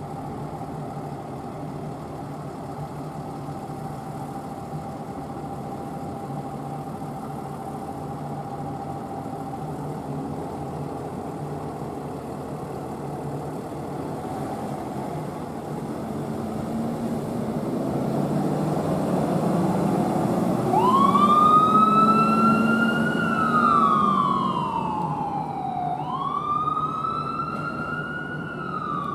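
Emergency vehicle engine running and getting louder as it approaches, then its siren starts about two-thirds of the way in and wails, its pitch climbing quickly, easing higher, then falling, twice over.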